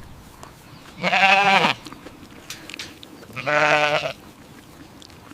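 Two bleats, each under a second long, with a wavering pitch, about two and a half seconds apart.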